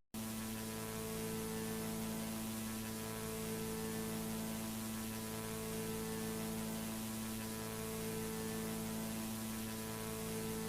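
Steady electrical hum with several pitched tones over a constant static hiss, like mains hum and noise on an old tape recording.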